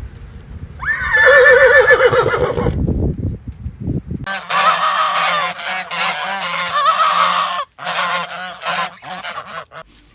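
Farm animal calls: one wavering call about a second in, then longer calls from about four seconds in, broken briefly near the end.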